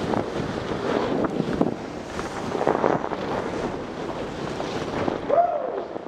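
Wind buffeting the camera microphone in uneven gusts, with a short tone that rises and falls once about five seconds in.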